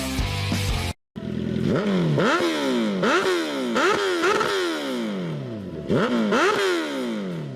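Superbike engine revved again and again, pitch shooting up and sliding back down about six times, after a second of music that cuts off abruptly.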